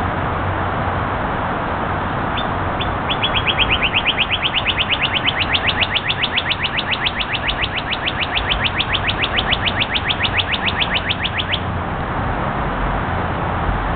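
A bird singing one long, rapid trill of short notes, each dropping in pitch. It begins a couple of seconds in with a few spaced notes, quickly speeds up to a fast even run, and stops abruptly after about nine seconds, over a steady background hiss.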